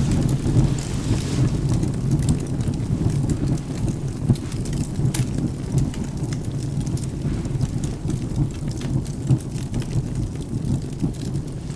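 Wood fire crackling with scattered sharp pops and ticks over a steady low rumble of rain and thunder.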